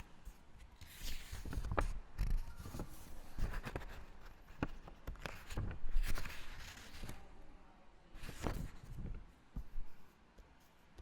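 Library background activity: soft rustling swishes, strongest about a second in, around six seconds and again near eight and a half seconds, with scattered light clicks and knocks between them.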